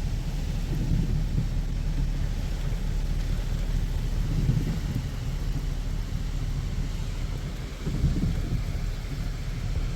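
Heavy rain falling during a thunderstorm, with low rolling rumbles of thunder that swell a few times.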